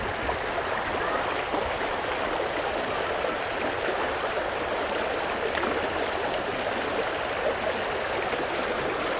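A stream running steadily over rocks, a continuous babble of flowing water.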